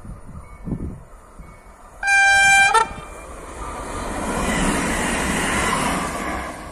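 A Koleje Dolnośląskie electric multiple unit sounds one short horn blast about two seconds in, then passes close by. The rush of wheels on rails builds, is loudest near the end, and starts to fade.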